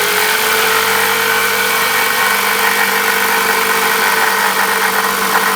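A vehicle engine running steadily, a constant hum under a wide hiss that stays level throughout.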